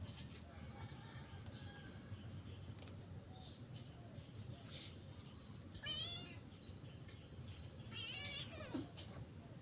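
A kitten crying out with two sharp, wavering mews, one about six seconds in and a longer one near the end, over a low steady hum. These are the cries of a kitten being handled roughly by its mother in play.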